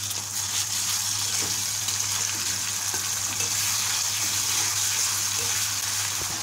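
Sliced onions and freshly added ginger-garlic paste sizzling in hot oil, with a spatula stirring and scraping them around the pan. It is a steady frying hiss, with a low hum underneath.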